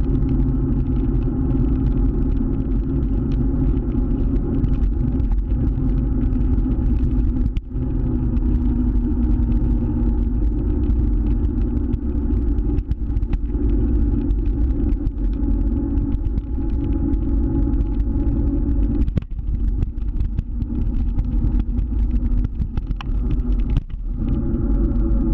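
Motor scooter engine running steadily while riding, under a loud, deep rumble; the level dips briefly a few times.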